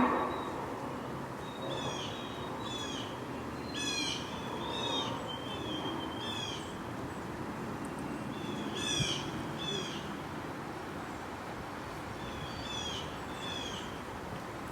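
A bird calling repeatedly in short downslurred notes, mostly in pairs, in bursts with pauses between, over a steady low background rumble.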